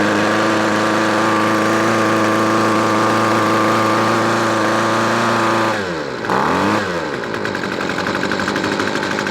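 Weedeater Featherlite SST25's 25cc two-stroke engine running just after starting, on a newly fitted aftermarket carburetor that has not yet been tuned. It holds a steady note, then about six seconds in drops in pitch, revs up once briefly, and settles to a lower, uneven running speed.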